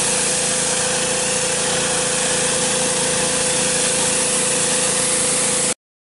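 Husqvarna PW 3200 gas pressure washer, with its Briggs & Stratton engine, running steadily as a broad hiss with a constant hum in it. The sound cuts off abruptly near the end.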